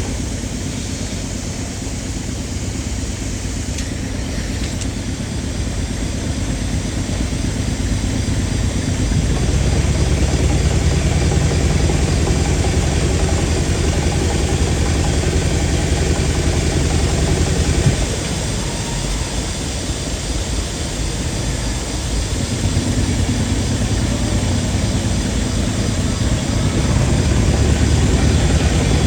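An old compressed-air drilling rig, with its air compressor and pneumatic drill, running steadily with a fast pulsing beat. It grows louder about a third of the way in, drops back briefly just past the middle, then builds again.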